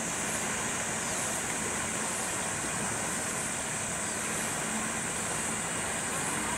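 Steady outdoor rain ambience: an even hiss with a constant high-pitched band that swells and fades gently.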